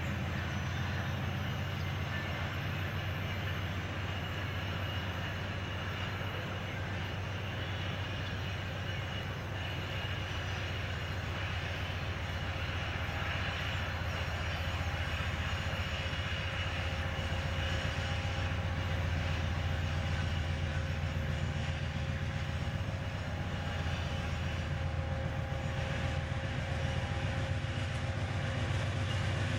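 Diesel freight locomotive running under power, a steady low rumble that grows a little louder in the second half as the train approaches.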